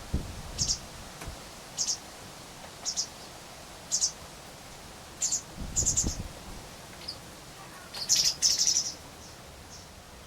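A bird chirping: short, high chirps about once a second, coming faster in a cluster about eight seconds in. Low dull thumps sound near the start and about six seconds in.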